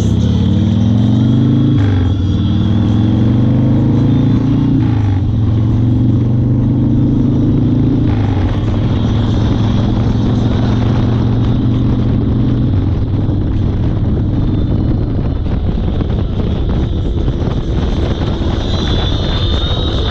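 1992 Harley-Davidson Fat Boy's 1340 cc Evolution V-twin accelerating through the gears. The engine note rises and drops at an upshift about two seconds in, rises again to another shift about five seconds in, then runs steady. Wind rush builds over the second half and covers the engine.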